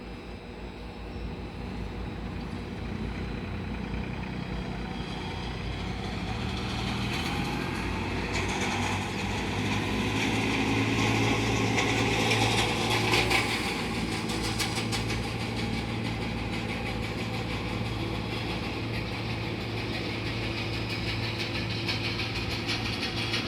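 ATR 72-600 twin turboprop engines and six-blade propellers at takeoff power: a steady low propeller drone under a whining, rushing noise, growing louder to a peak about halfway through, then holding steady.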